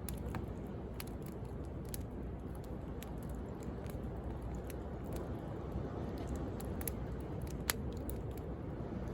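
Wood bonfire crackling and popping, with scattered sharp snaps over a steady wash of sea waves; one louder pop about three-quarters of the way through.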